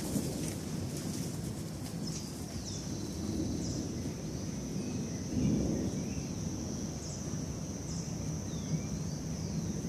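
Low rumble of distant thunder that swells about halfway through, under a steady high insect buzz and scattered short bird chirps.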